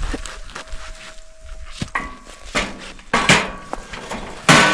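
Steel parts knocking and clanking together as a piece is fitted into place: about five separate hits with a brief metallic ring, the loudest near the end.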